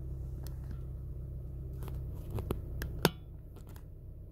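Low steady drone inside a Toyota Corolla's cabin while driving, with scattered light irregular clicks and taps, the loudest about three seconds in.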